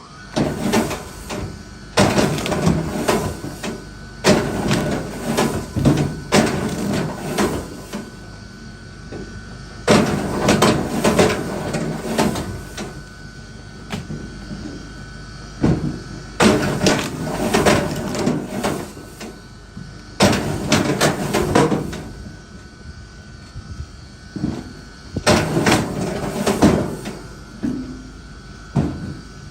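Pieces of firewood knocking and clattering against each other in bursts of a second or two, with short pauses between the bursts.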